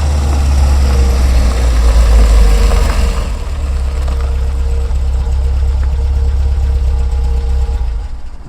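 Car engine idling steadily with a deep, even rumble, fading out near the end.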